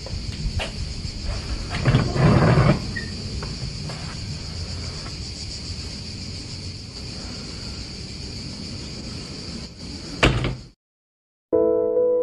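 A plank door's iron latch clicks and the door scrapes open about two seconds in, with a sharp knock near the end, over a steady high drone of insects. The sound then cuts out and soft piano music begins just before the end.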